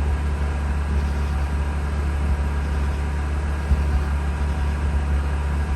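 Mazda RX-8's twin-rotor Renesis rotary engine idling steadily, just restarted after being flooded, with an idle weak enough that the owner fears it may stall.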